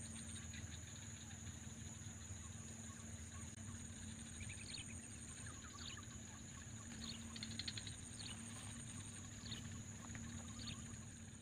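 Short bird chirps called now and then, several in the second half, over a steady high-pitched drone and a low outdoor hum.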